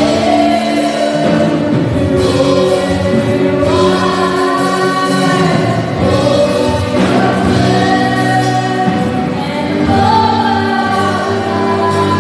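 Worship team singing a gospel praise song together over long held instrumental chords.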